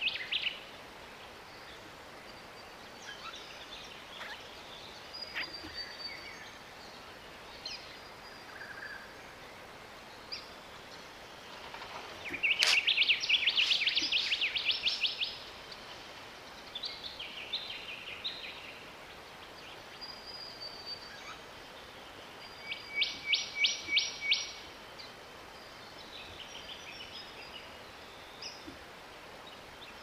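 Birds calling: scattered high chirps, a loud rapid rattling series of sharp notes lasting about three seconds, beginning about twelve seconds in, and a shorter run of about five evenly spaced notes a little after twenty seconds.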